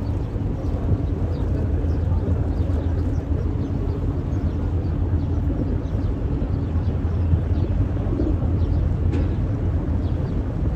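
A riverboat's engine running steadily with a low drone.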